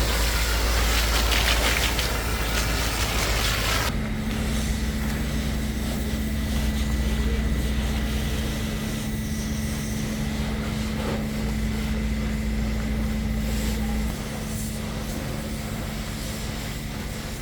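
A car-wash pressure washer: the jet hisses for about four seconds and cuts off suddenly, while the machine's steady hum goes on underneath and drops away about fourteen seconds in.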